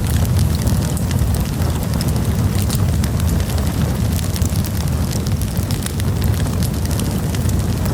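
Wood campfire burning, with a steady low rumble under frequent sharp crackles and pops.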